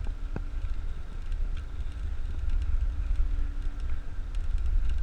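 Wind buffeting the microphone of a camera on a moving bicycle: a steady low rumble, with a faint hum underneath.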